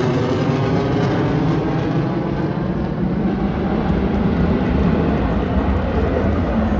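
F-16 fighter jet engine noise during an aerobatic display: a loud, steady, deep rumble, its high hiss thinning early on as the jet moves away.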